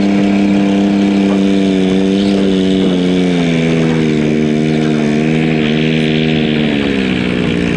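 Diesel garden pulling tractor's engine running hard under load, its pitch sagging slowly lower through the second half as it lugs down.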